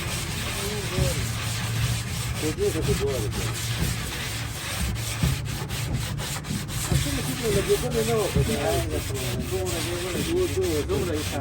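Steady sanding on a car body panel, a continuous rubbing noise.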